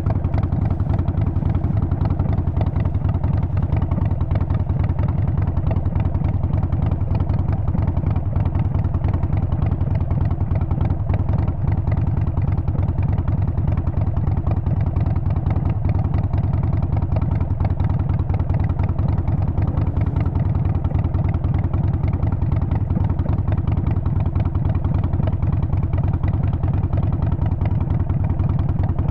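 Harley-Davidson Sportster 48's air-cooled 1200 cc V-twin and exhaust running at steady revs while riding, a deep, even pulsing with no gear changes or revving.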